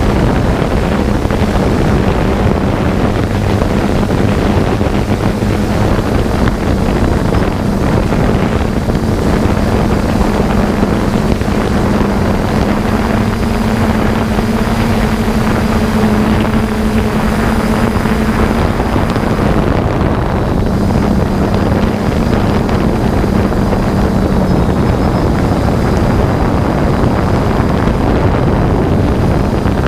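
3DR Solo quadcopter's motors and propellers running with a steady hum, heavy with wind noise on the on-board camera's microphone; the hum shifts slightly in pitch about halfway through.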